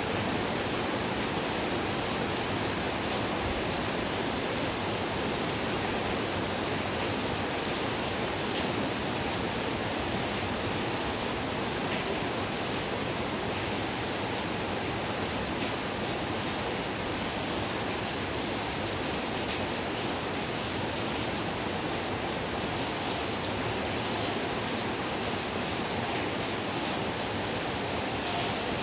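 Heavy rain falling steadily, a dense even hiss without breaks or individual drops standing out.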